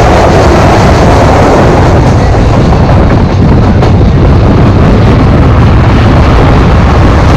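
Loud running noise of a passenger train at speed, heard from an open coach window, with wind buffeting the microphone. The enclosed tunnel roar eases within the first two seconds as the coach comes out of the tunnel into open air.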